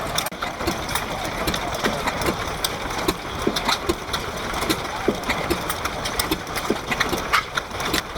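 Vintage stationary engines running, a clatter of irregular ticks and knocks from several engines at once.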